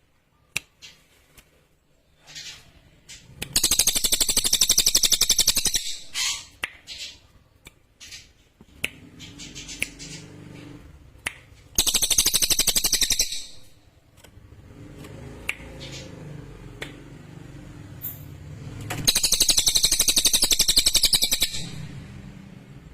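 A cililin songbird singing: three long, rapid, high buzzing trills several seconds apart, with short sharp chips in between.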